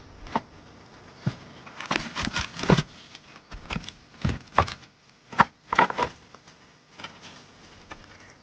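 Irregular knocks and clatter, about a dozen sharp strikes spread over several seconds, bunched together in the middle.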